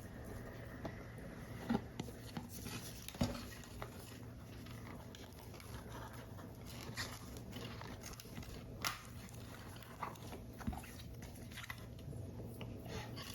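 Paper model pieces being handled close up: soft paper rustling with scattered small clicks and taps, the sharpest about two, three and nine seconds in.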